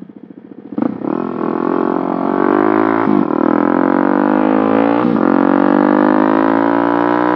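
Small motorcycle engine with an aftermarket exhaust, ticking over with a quiet pulse, then about a second in the throttle opens and it pulls away, the revs climbing. The pitch drops and climbs again at gear changes about three and five seconds in.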